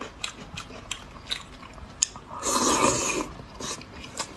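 Close-up chewing and biting, with many small sharp wet clicks of the mouth and food. About two and a half seconds in, a louder, noisier stretch lasts most of a second.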